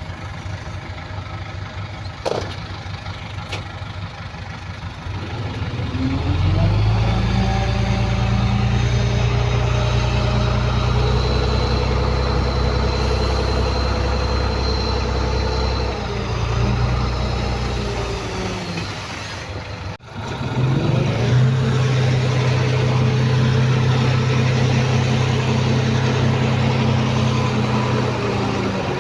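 Heavy diesel engine of earthmoving equipment running at low revs, then revving up about six seconds in and holding high under load for about ten seconds before easing back. After a sudden break near twenty seconds it runs high again to the end.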